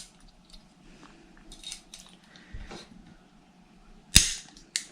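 Small metal clicks and scrapes of a hand tool on the head bolts of a Force .28 nitro engine, then a single sharp crack about four seconds in as a head bolt breaks loose, followed by a lighter click.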